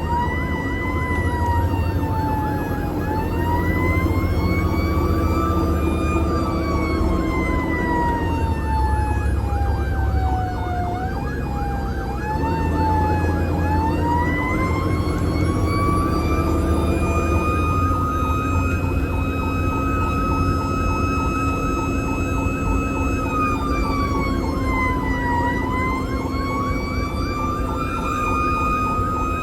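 Fire engine siren wailing, its pitch sweeping slowly up and down over several seconds at a time and holding level for a while near the end, over the steady low rumble of the truck's engine.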